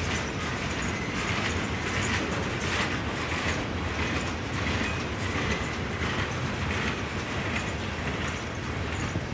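Freight train cars rolling past: a steady rumble of wheels on rail, with repeated clicks from the wheels.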